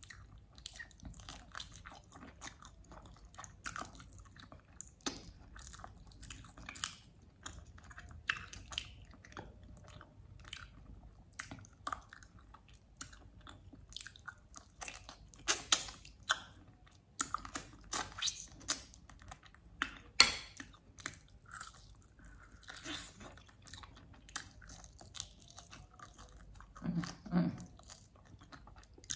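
Chewing and biting on a mutton chop, the meat gnawed off the bone, with scattered sharp crunches and clicks that are loudest and most frequent around the middle.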